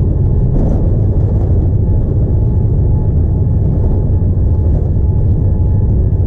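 Steady cabin noise of a Boeing 787-9 airliner: a loud, even low rumble of engines and airflow with a faint constant whine.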